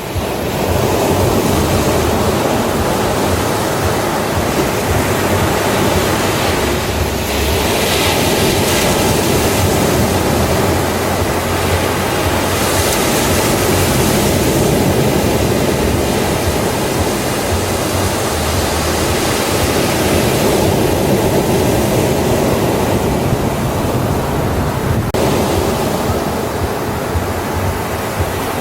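Ocean surf breaking and washing onto a beach: a continuous rush of water noise that swells several times as waves break.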